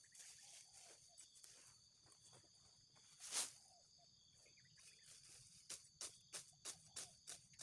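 Sickle cutting grass stems in quick strokes, about three a second, with a pause in the middle and one louder swish. A steady high drone of insects runs under it.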